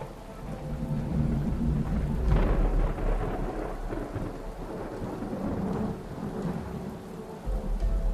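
Thunder rumbling, swelling to its loudest about two seconds in, over a steady hiss of rain.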